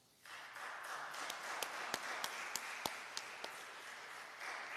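A congregation applauding: many hands clapping in a dense patter, with a few sharper single claps standing out.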